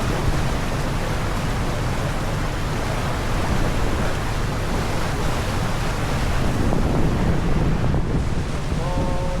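Steady wind noise on the microphone over the rush of sea water.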